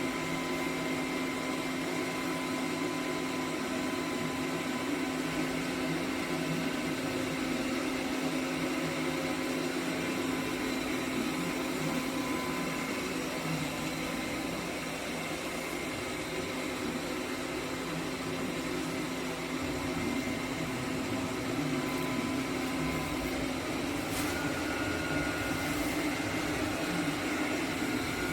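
Robot vacuum cleaner running steadily: an even motor hum and hiss with a few constant tones.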